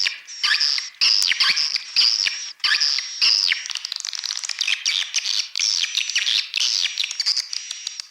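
Recorded swiftlet calls played as a lure sound for a swiftlet house: many quick down-sweeping chirps and twitters from a flock. They come in short bursts for the first three and a half seconds, then run on as denser, continuous twittering.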